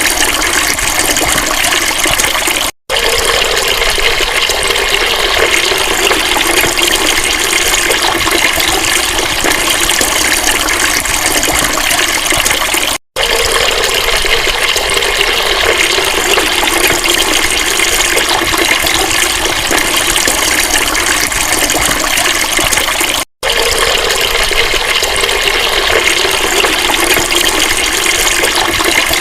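Steady gush of flowing water. It cuts out for an instant three times, about ten seconds apart.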